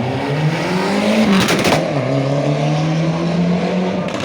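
Ford Escort RS Cosworth rally car's turbocharged four-cylinder engine revving up. A rapid rattle of bangs comes about a second and a half in, then the engine settles to a steady, lower held note.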